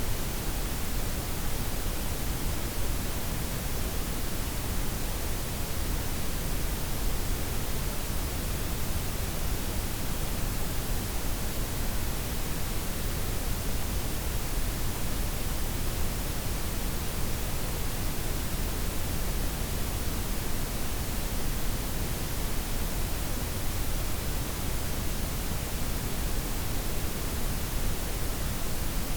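Steady synthetic sleep noise: a blend of white, pink and brown noise with the highs softened, an even, unchanging hiss and rumble.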